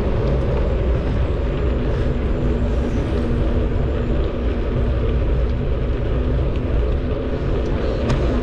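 Wind rushing over the microphone of a camera on a moving bicycle, a steady loud rumble with a few faint ticks near the end.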